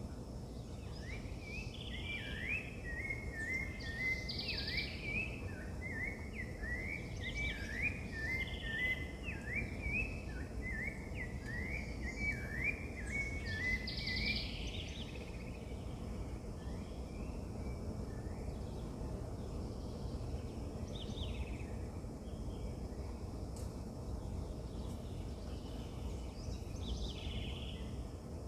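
Birds chirping outdoors over a steady low background noise. A fast run of short rising notes fills the first half and stops about halfway through, with a few higher calls scattered across the rest.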